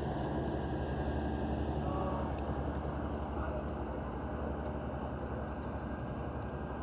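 Small boat engine running steadily at an even pitch, a constant low drone with no change in speed.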